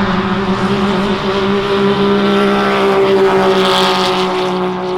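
Small off-road engine held at high, steady revs, its pitch staying nearly constant.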